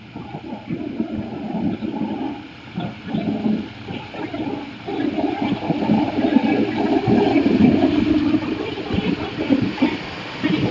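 A passenger train passes close by at speed, led by Hitachi-built diesel-electric locomotive 4506. It starts as a loud rushing rumble, which swells about halfway through as the locomotive goes by. Then comes the irregular clatter of the coaches' wheels on the rails.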